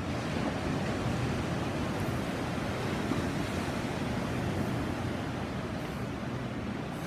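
Sea surf washing on a beach, a continuous rushing wash that swells gently, with some wind on the microphone.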